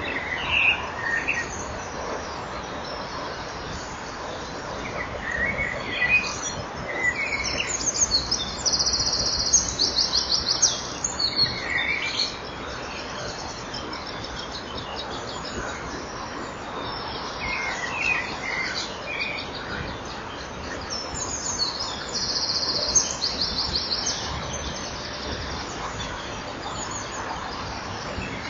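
Birds chirping in short scattered calls, with two bouts of rapid, very high trilling, over a steady hiss from the nest-box microphone.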